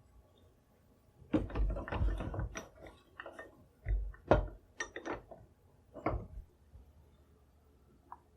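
Metal buttplate being handled and set against the end of a walnut rifle stock for test fitting: a run of knocks and clunks over a few seconds, then a faint tick near the end.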